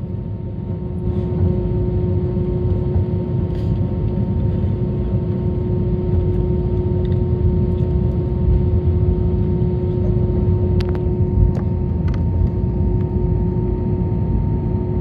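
Cabin noise inside an Airbus A321 taxiing after landing: a steady low rumble from the idling jet engines and the cabin air system, with a constant hum running through it.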